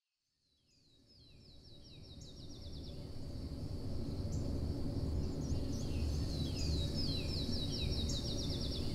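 Songbird singing over a low, steady outdoor ambience that fades in from silence: a rapid trill of quick falling notes, heard twice, with scattered chirps between.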